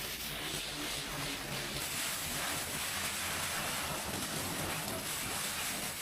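Pressure washer spraying water onto the aluminium hull, a steady rushing hiss.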